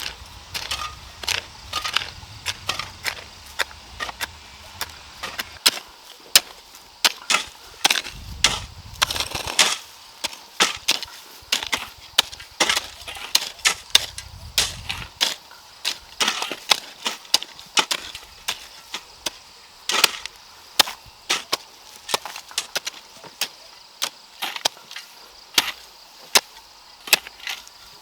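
Repeated sharp chopping strikes of a hand tool, irregular at about one or two a second, with some low rumble in the first half.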